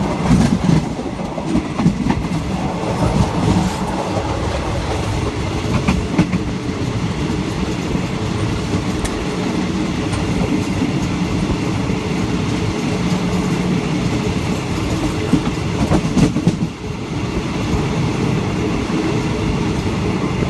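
Train running on the rails: a steady rumble with occasional wheel clacks and knocks over rail joints.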